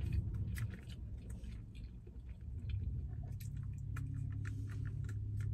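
Close-mouthed chewing of a mouthful of chicken sandwich, with many small wet clicks and crunches, over a steady low hum that grows a little louder about three seconds in.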